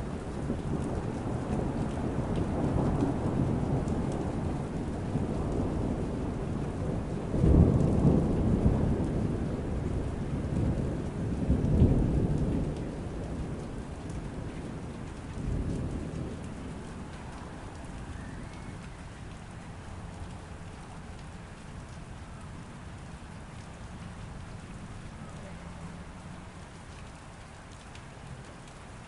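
Thunderstorm: rolling thunder over steady rain. The thunder peaks about seven and twelve seconds in, with a smaller rumble near fifteen seconds, then dies away, leaving steady rain for the second half.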